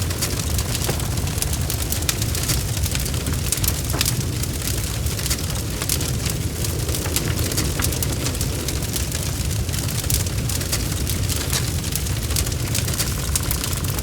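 Wood fire burning in a fireplace: a steady low rumble of the flames with frequent irregular crackles and small pops from the burning wood.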